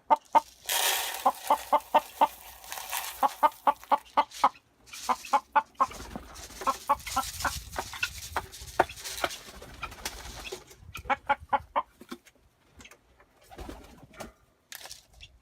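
Backyard birds calling: long runs of short, quickly repeated clucking notes, several a second, pausing near the end. A rustling noise sits under the calls for the first few seconds.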